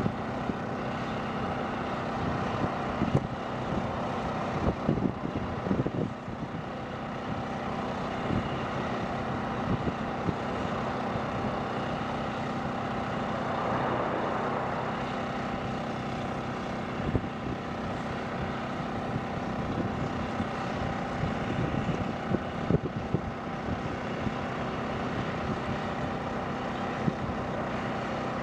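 AV-8B Harrier II jet engine running: a steady jet noise with several steady whining tones. Brief louder thumps break in now and then.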